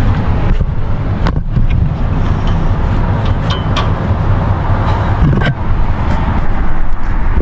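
A steady low engine rumble from a running vehicle, with a couple of sharp clicks, about a second in and again past the middle.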